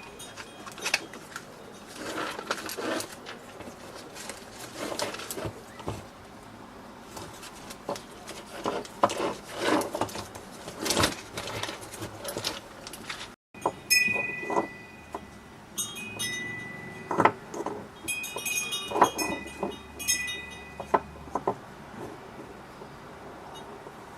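Irregular clicks, knocks and light metallic clinks with short ringing tones, as metal parts and tools are handled while a coffee machine is taken apart.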